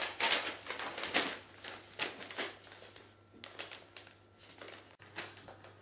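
Pen scratching on paper in a run of short, irregular writing strokes that grow fainter toward the end.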